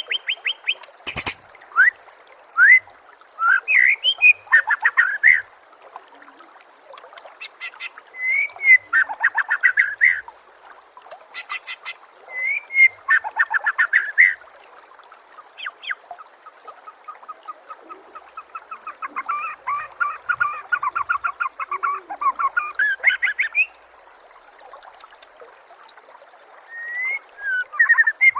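White-rumped shama (murai batu) song: a run of varied phrases of whistles, rapid high trills and chirps with short gaps between them, including a long fast rattling series in the second half. Under it runs a faint steady trickle of water.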